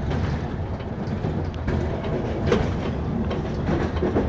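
Moving passenger train heard from inside a carriage: a steady rolling rumble with wheels clacking over the rails and a few short knocks.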